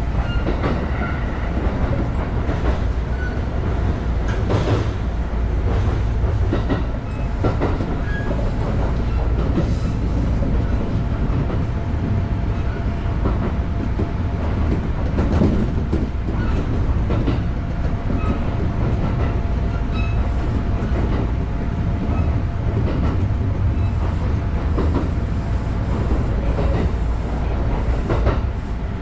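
Electric commuter train running at speed, heard from inside the driver's cab: a steady low rumble of wheels on rail, with a click or knock every few seconds as the wheels pass over rail joints.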